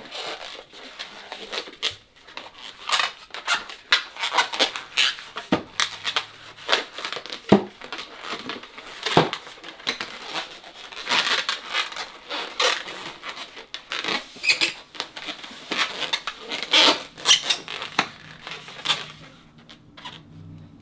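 Inflated latex modelling balloon squeaking and rubbing in irregular bursts as hands pinch and try to twist it. It won't twist, which the twisters put down to too much air in the balloon.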